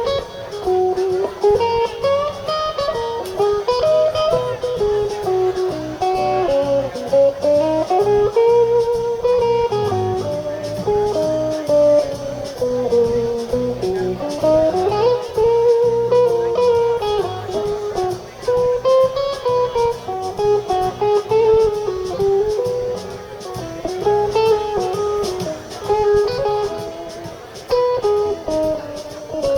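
Live blues band playing an instrumental stretch: an electric lead guitar solo with bending, gliding notes over bass and drums.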